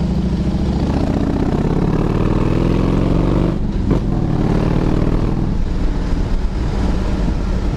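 Motorcycle engine accelerating, its pitch climbing, dropping at a gear change about three and a half seconds in, then climbing again.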